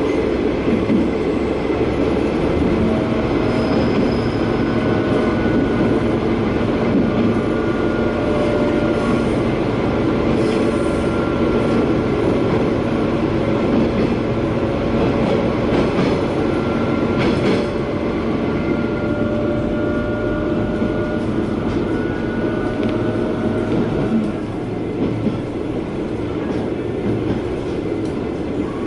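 KiHa 120 diesel railcar running, heard from inside the cabin: a steady rumble of engine and wheels on rail, with faint thin wheel squeal that comes and goes. It gets a little quieter about 24 seconds in.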